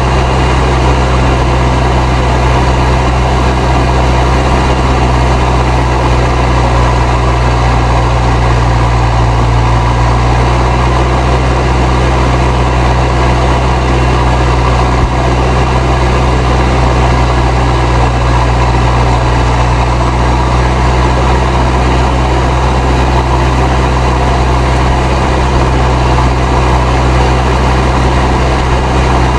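Fendt 307 Ci tractor's turbocharged diesel engine running steadily under ploughing load, with the turbo whistling over the engine.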